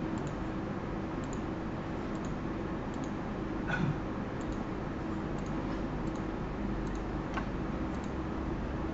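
Faint clicking at a computer, a few scattered ticks and two sharper clicks about four and seven seconds in, over a steady hiss and low hum.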